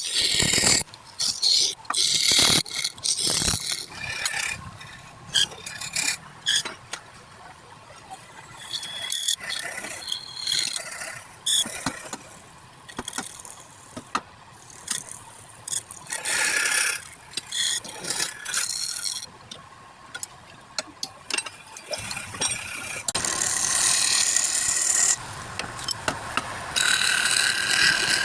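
Workshop work on wood: irregular clicks, knocks and short scraping strokes, turning to a longer stretch of steady rasping or sanding-like scraping in the last few seconds.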